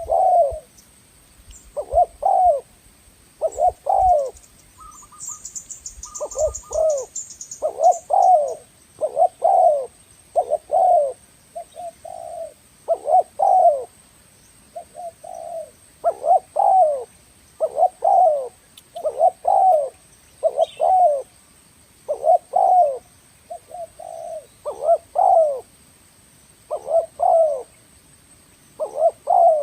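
Spotted dove (tekukur) cooing over and over, one short phrase of downward-bending coo notes about every second, with no pause.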